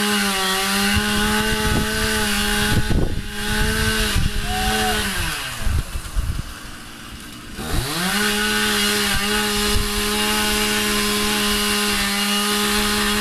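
Two-stroke chainsaw running at high revs while cutting into a dead tree, with a few sharp knocks about three seconds in. About halfway through it drops to idle for roughly two seconds, then revs back up and holds steady.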